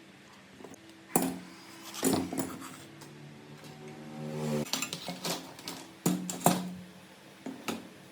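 Metal parts being handled and knocked together: a series of sharp clanks, some ringing briefly, with a short rising scrape near the middle.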